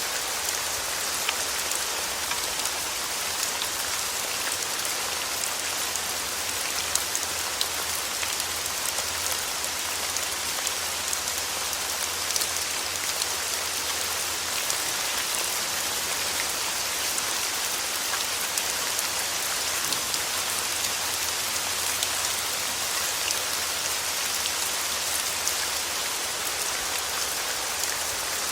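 Steady rain falling, with fine scattered drop ticks over an even hiss.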